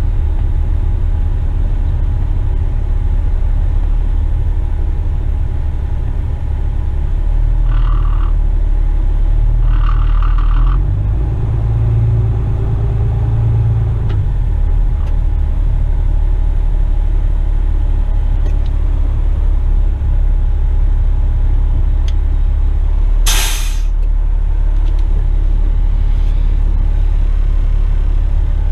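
Western Star tipper truck's diesel engine running steadily while driving, a loud low drone that rises briefly in pitch about 12 seconds in. A short, sharp hiss of air from the truck's air brake system comes about 23 seconds in.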